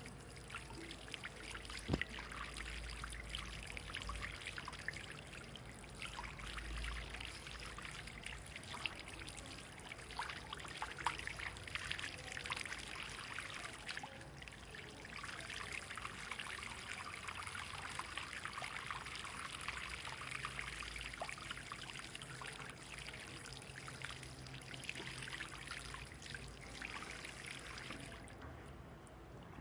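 Water pouring and trickling steadily as a continuous run of small splashes, fading out near the end.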